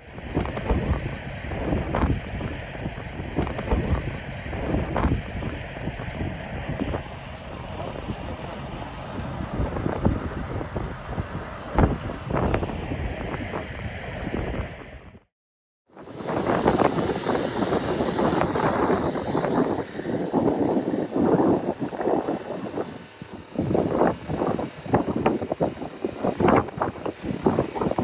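Strong gusting wind buffeting the microphone, a heavy, uneven rumble that surges and falls. The sound drops out completely for under a second about halfway through, then the wind noise resumes.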